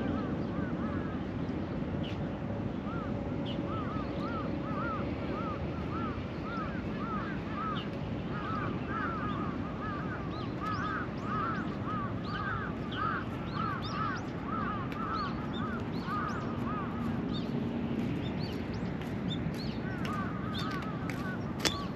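Many birds calling in quick, overlapping short calls, thickest from a few seconds in until past the middle and picking up again near the end, over steady background noise.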